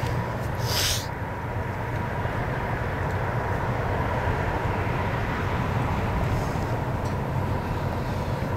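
Steady low rumble of a diesel train running out of sight, with a faint steady tone above it and a short hiss about a second in.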